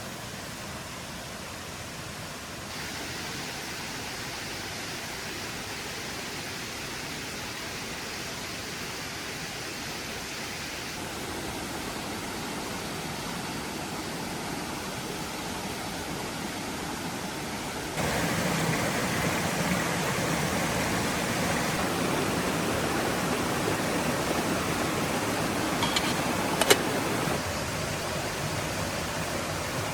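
Steady rushing noise with no distinct tones. It grows louder about eighteen seconds in, with a single sharp click near the end.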